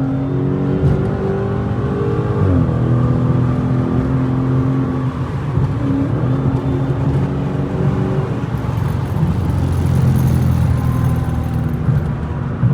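Straight-piped Dodge Challenger Scat Pack's 6.4-litre HEMI V8 droning steadily while driving, heard from inside the cabin with the windows up. Its pitch dips briefly about two and a half seconds in, and again slightly near six seconds.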